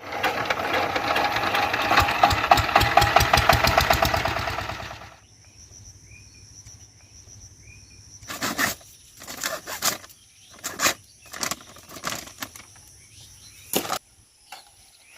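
Small engine running loudly with a fast, even firing beat, cutting off abruptly about five seconds in. After it, a steady high insect-like buzz remains, broken by several short bursts of noise.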